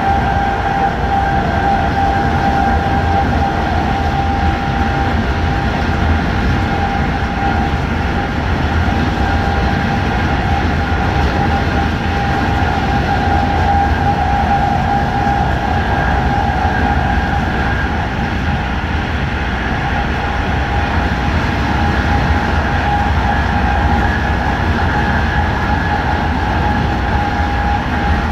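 Electric passenger train running steadily at speed, heard from inside the train: a constant rumble of wheels on rail with a steady high-pitched whine over it.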